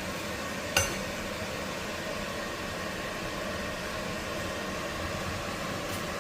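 Steady hiss of chapati cooking in a hot pan, with one sharp clink of a utensil against the pan about a second in.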